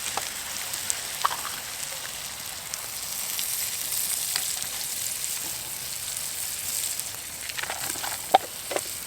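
Wild-mushroom and cream sauce sizzling steadily in a pan over a campfire, with a few sharp clicks of a utensil against the pan, several close together near the end.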